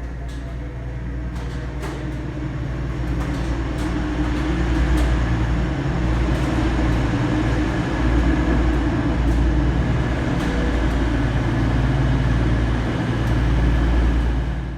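Class 222 Meridian diesel-electric multiple unit's underfloor diesel engines running with a steady low drone. The drone grows louder over the first few seconds, then holds.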